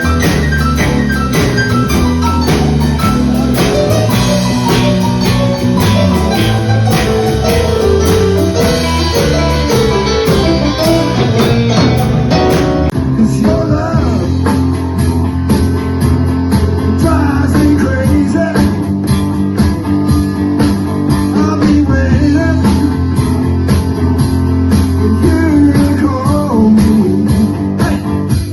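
Live band playing a guitar-led instrumental passage over bass and drum kit.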